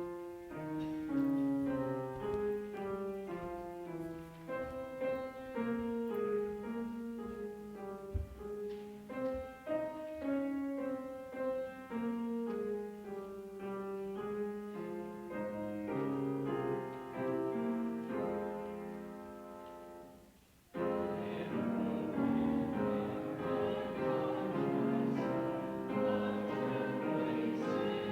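Keyboard instrument playing the introduction to a hymn in clear sustained notes. After a short pause about three-quarters of the way through, a fuller sound begins, the congregation joining in singing with the accompaniment.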